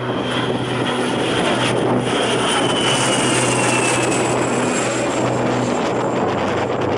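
Jet airliner passing close by, a loud steady engine rush with a high whine that slowly falls in pitch.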